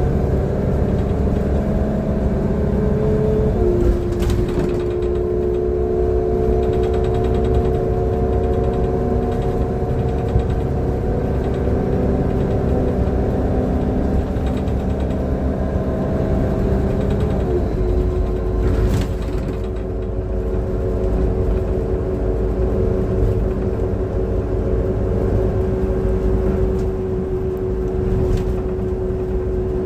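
Transperth bus engine and drivetrain running under way, a deep rumble with a steady whine whose pitch steps down about four seconds in and again about eighteen seconds in. A few brief knocks come through, and the uploader calls the engine's sound bad.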